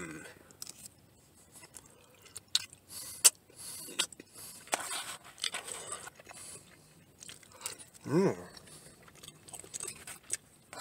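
A person chewing a mouthful of loco moco (rice, hamburger patty, fried egg and gravy), with irregular short sharp clicks of the mouth and a brief hum about eight seconds in.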